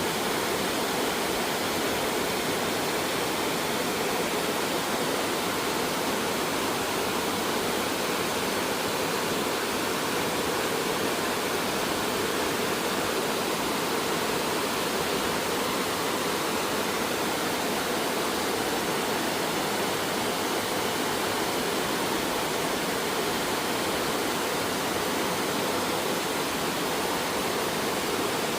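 Flowing stream water rushing, a steady, even noise that does not change.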